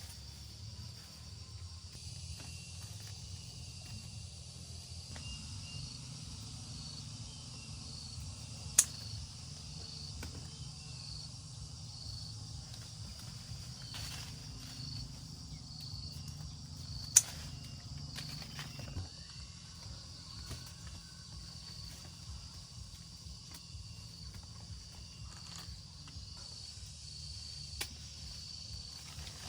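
Crickets chirping steadily in a high, pulsing trill, over a low rumble that stops about two-thirds of the way through. Two sharp, loud clicks cut in, about nine seconds in and again about seventeen seconds in.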